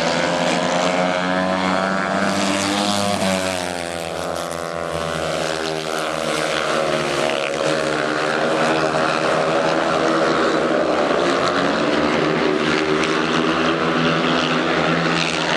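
Several speedway motorcycles racing, their 500 cc single-cylinder methanol engines running hard with open exhausts. The pitch falls and rises again a few seconds in as the bikes pass through a bend, then holds high.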